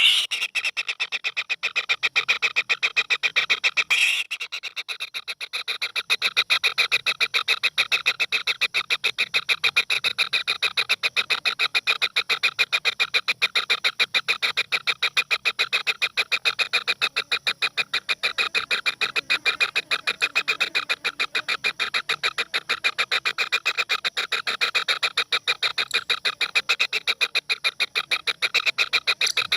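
An animal calling in a fast, even pulsing trill of many pulses a second, with a short break about four seconds in.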